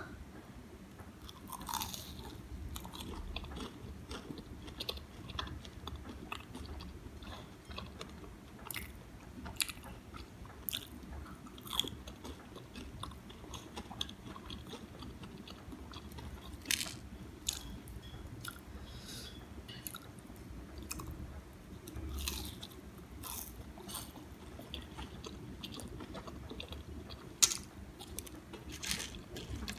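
Close-miked chewing and biting of crispy vegetable pakoras, with irregular sharp crunches over soft mouth sounds; the loudest crunch comes near the end.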